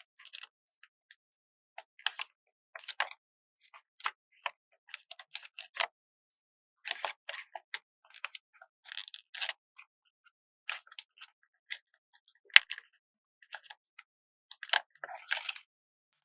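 Stickers being peeled from their backing sheet and handled: irregular crisp crackles and small taps of paper and sticker film, with one sharp click near the end.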